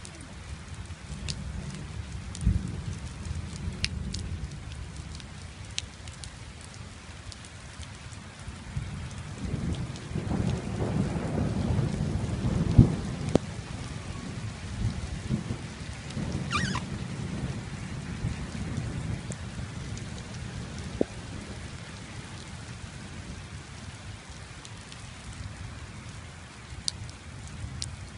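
Rain falling steadily, with scattered sharp drips. A low rumble swells in the middle and then fades.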